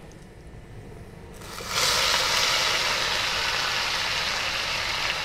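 Wet diced bottle gourd hitting hot oil in a frying pan: a sudden loud sizzle starts about two seconds in and holds steady, easing off only slightly. Before that there is a faint sizzle from the garlic, cumin and curry leaves being stirred.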